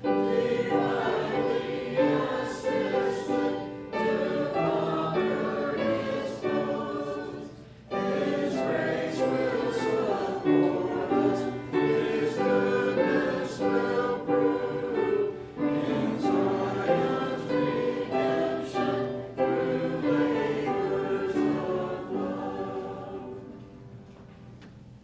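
Congregation singing a hymn together in phrases, with a short break about a third of the way in; the last note dies away near the end.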